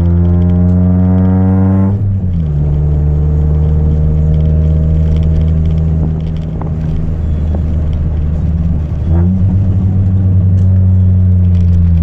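Chevrolet Celta 1.0 four-cylinder engine with a 4x1 header and a two-inch straight exhaust without mufflers, held at steady revs. The pitch drops to a lower steady note about two seconds in and rises again to a higher held note around nine seconds in.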